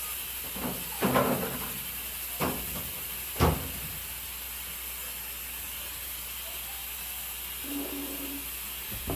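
Steady low hiss with a few light knocks in the first few seconds, the loudest about three and a half seconds in, and a brief faint tone near the end.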